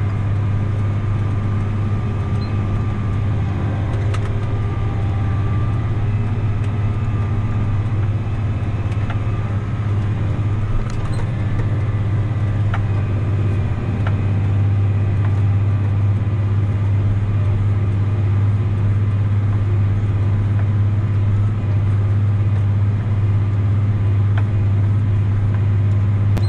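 Tractor engine running steadily under load while pulling a disk harrow, a constant low drone with a few faint clicks and rattles.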